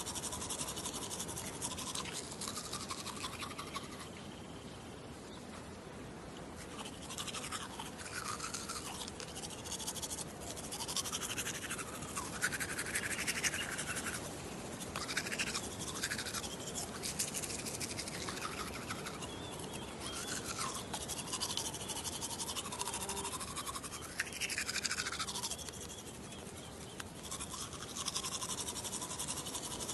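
Teeth being brushed with a toothbrush, close up: continuous wet scrubbing of the bristles with rapid strokes, its tone sliding up and down, easing off briefly twice.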